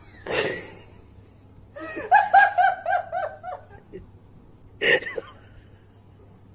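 A person laughing in a quick run of about seven high-pitched 'ha's, with a short sudden burst of noise about half a second in and another near the end.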